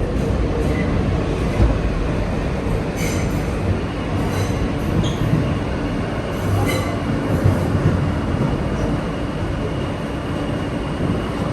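R160 subway train running on the track with a steady rumble of wheels on rail, broken by short high-pitched wheel squeals about three and seven seconds in.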